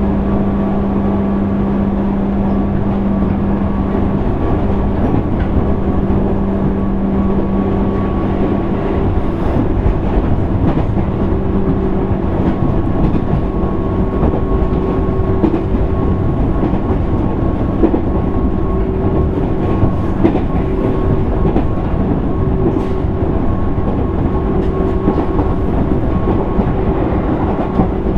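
JR East 205 series 600 subseries electric train heard from inside motor car MoHa 204-604, running at a steady speed: a continuous rumble with a steady motor and gear hum. Wheels click over rail joints a few times in the second half.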